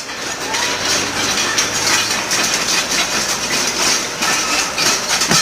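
Backhoe rolling on a metal wheel over a concrete road: a continuous grinding, clanking scrape of steel on concrete, the kind of contact that gouges the road surface.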